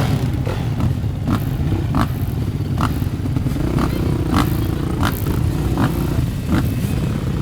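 Motocross bike engines running at low revs, with a throttle opened and held briefly about halfway through, and short sharp clicks at a steady pace of about one every 0.7 s.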